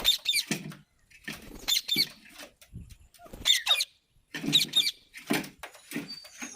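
Pet rose-ringed parakeet (Indian ringneck) giving a series of short, high, squeaky calls, about one a second.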